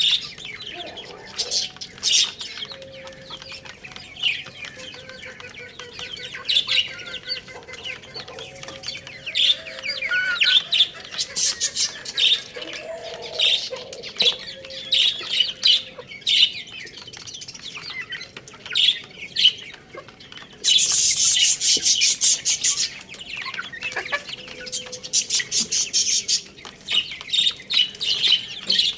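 Chickens: a steady run of short, high chick chirps with hen clucking, and a dense, loud flurry lasting about two seconds about three-quarters of the way through.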